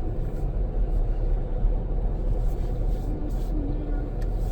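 Steady low rumble heard from inside a stationary car, with a few faint clicks.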